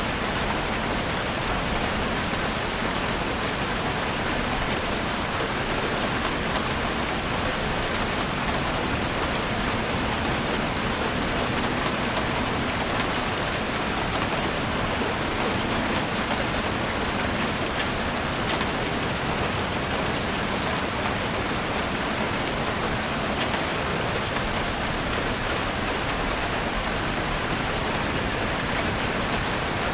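Heavy rain falling steadily on a chalet roof: a dense, even hiss of drops, with fine individual drop ticks on top.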